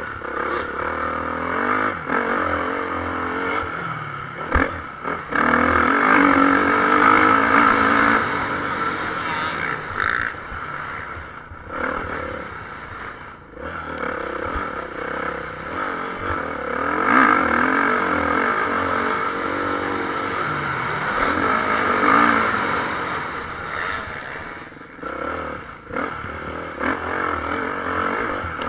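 Motocross bikes racing, engines revving up and down as riders go by, loudest about five to nine seconds in and again around seventeen to twenty-three seconds.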